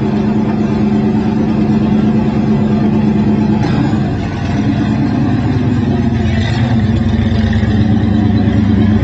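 Modified dirt track race car's engine running loudly and steadily, with a brief dip in level and a change in its note about four seconds in.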